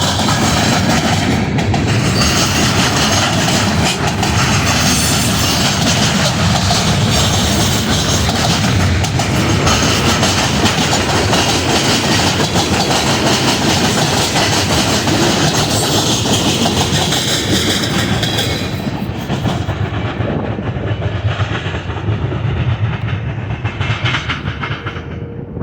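A train's cars rolling past close by, wheels clacking over the rail joints in a steady loud rumble that thins out and quietens about 19 seconds in as the train goes by.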